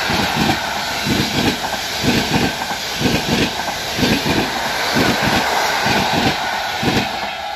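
A train passing close by: steady rolling noise from the wheels on the rails, with a regular clickety-clack of wheels knocking over rail joints, often in pairs, about two knocks a second. The knocks stop near the end as the last car goes by.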